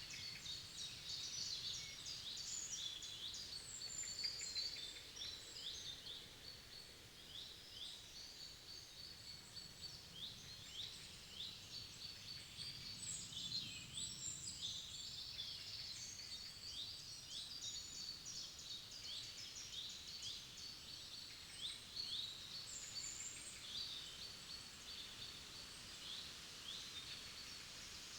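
Several songbirds chirping and singing together: a dense chorus of short, quick, high notes, many sweeping downward, over a faint low background hum.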